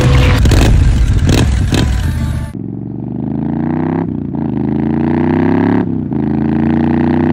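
Triumph Street Scrambler's 900 cc parallel-twin engine through an aftermarket Zard slip-on exhaust, first revving loudly with sharp cracks. About two and a half seconds in it switches to accelerating through the gears, the pitch climbing and dropping back at each upshift, three shifts about two seconds apart.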